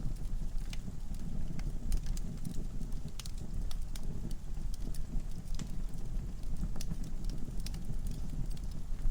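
Wood fire burning in a fireplace: a steady low rumble of flame with irregular sharp crackles and pops from the logs.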